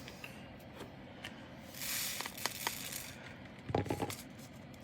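Small plastic bags and containers of diamond-painting drills being handled: a short crinkling rustle about two seconds in, a few light clicks, and a brief knock near the end.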